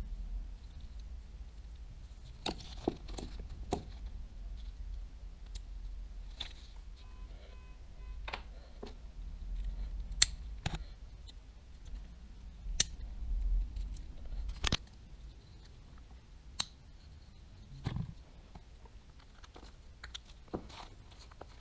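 Light, irregular clicks and taps of small reel parts and tools being handled as a Daiwa Tatula 100 TWS baitcasting reel is taken apart, over a low rumble.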